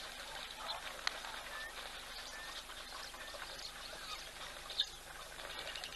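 Birds calling at a waterhole: a steady run of short chirps and whistles, with two sharp clicks, one about a second in and one near the end.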